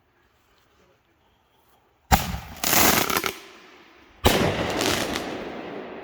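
Consumer reloadable artillery shell firing: two loud bangs about two seconds apart, the first followed by a brief spell of crackling, the second trailing off in a long, slowly fading rumble.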